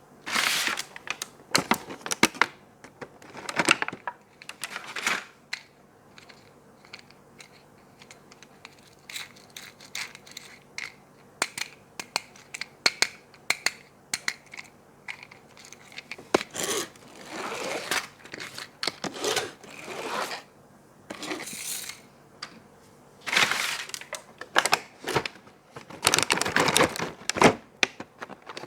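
Toy packaging being torn open and crinkled by hand: irregular bursts of tearing and rustling with sharp clicks, heaviest at the start and again through the second half.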